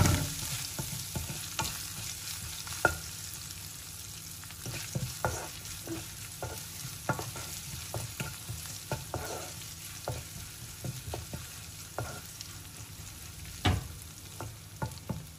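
Chopped garlic and ginger sizzling in hot ghee in a pan while a wooden spatula stirs them, scraping and tapping the pan at irregular moments, with one louder knock near the end.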